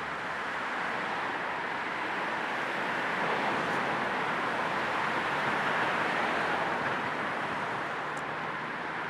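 Steady hiss of a car's road and tyre noise on the move, blended with white noise, swelling a little in the middle and easing slightly near the end.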